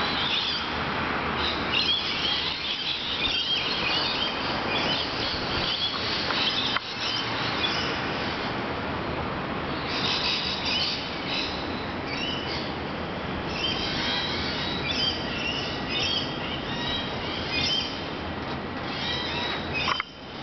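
Many small birds chirping and twittering over a steady hiss of outdoor background noise.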